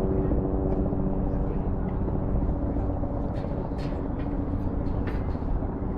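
An engine's steady, even drone with wind rumbling on the microphone. A few faint, short high-pitched sounds come in the second half.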